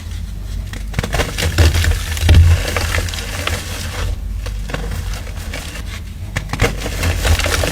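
Blocks of chalk being crushed and crumbled, a dense run of crackling and crunching snaps in two bouts with a short lull in the middle.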